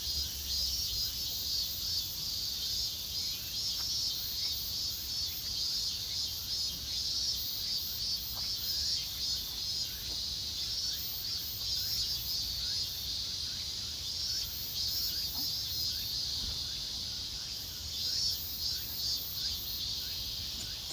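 Outdoor insect chorus: a dense, continuous high-pitched chirping and trilling that pulses slightly throughout.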